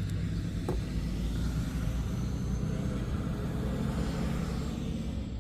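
1994 Chevrolet Blazer's 5.7 L 350 V8 running steadily with a low, even hum, with a single short click a little under a second in.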